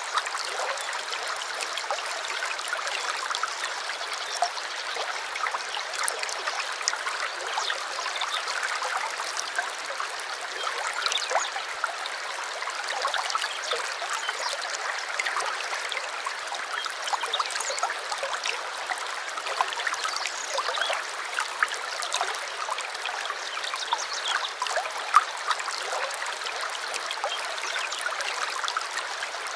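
Small stream babbling and trickling steadily, with many small splashes over the rush of water.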